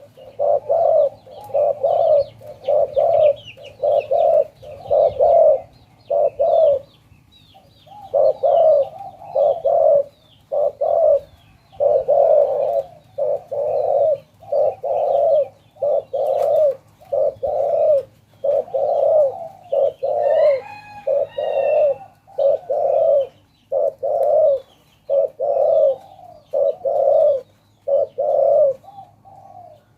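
Spotted dove cooing over and over, low mellow coos in runs of several with short pauses between. Faint chirps of small birds sit in the background, and a higher call from another bird comes briefly about two-thirds of the way through.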